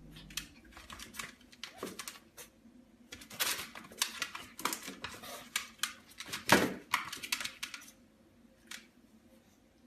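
Irregular light clicks, taps and rustles in a small room, busiest in the middle few seconds and thinning out towards the end.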